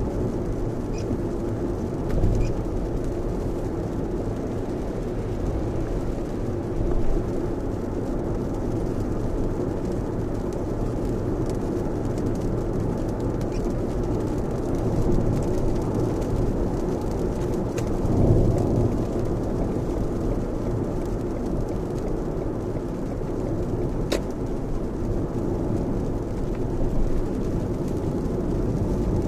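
Steady in-cabin road noise of a Lexus RX driving on a wet expressway in a heavy downpour: tyre and rain noise, with a few brief swells.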